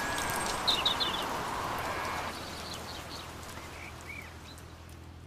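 Birds chirping, a few short calls about a second in and a couple more later, over a steady hiss that falls away after about two seconds, leaving quieter outdoor ambience.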